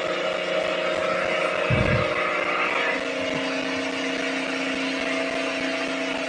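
A steady motor hum holding several even tones, with a single low thump about two seconds in.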